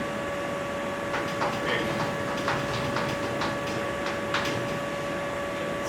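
Writing or drawing on a lecture board: a series of short, sharp strokes and taps, about seven of them spread over a few seconds, over a steady high electrical whine on the recording.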